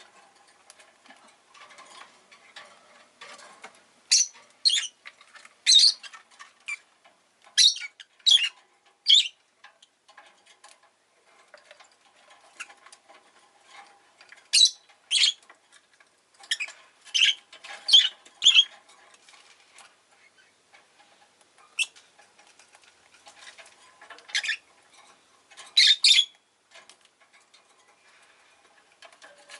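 Rosy-faced lovebird chirping: loud, short, shrill calls, mostly in quick clusters of two to four, with pauses of a few seconds between clusters.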